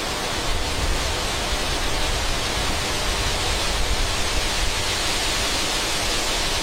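A loud, steady rushing noise, even across high and low pitches, with no music.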